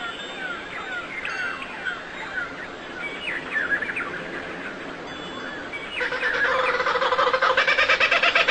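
Birds singing: many short, quick chirps that each fall in pitch, crowding over one another. About six seconds in, a louder, harsher call with a rapid pulsing rhythm takes over.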